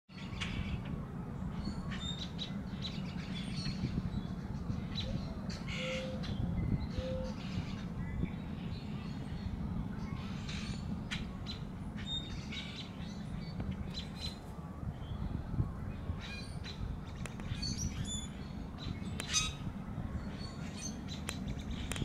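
Birds chirping and calling again and again at irregular moments, with two short low notes about a third of the way in, over a steady low rumble.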